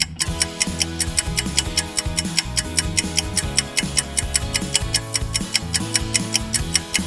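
Background music with a fast, even clock-like ticking over it: a countdown-timer sound effect running while the quiz answer is awaited.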